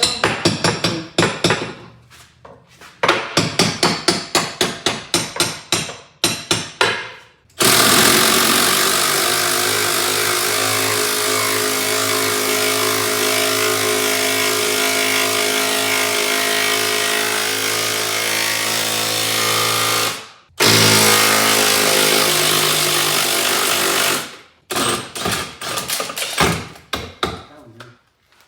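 A power tool runs steadily at one pitch for about twelve seconds, stops briefly, then runs again for about four seconds, driving the outboard's mounting bolts. Before and after it come quick series of sharp rapping strikes, several a second.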